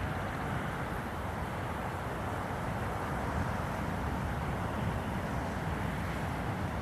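Steady rush of flowing river water, with a low, uneven rumble of wind buffeting the microphone.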